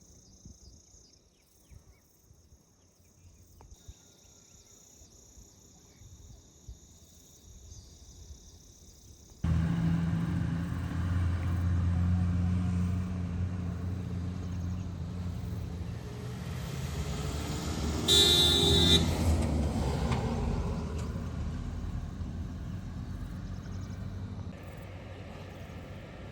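Faint, steady insect buzzing gives way suddenly to a motor vehicle's engine running. Partway through, its horn sounds once for about a second.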